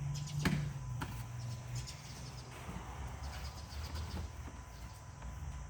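Rag wiping down dressed engine-bay surfaces: a couple of sharp clicks early, then faint rubbing strokes over a low steady hum.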